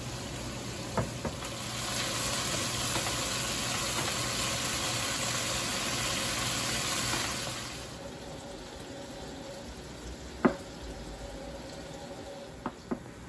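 Chorizo frying in a stainless steel pan, sizzling hard for about six seconds while stirred with a wooden spoon, then dropping away. Near the end come a few sharp knocks of a knife cutting boiled potatoes on a plastic cutting board.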